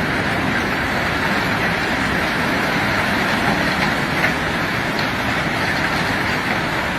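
Steady rushing, rattling noise of rock being unloaded, with a light knock about four seconds in.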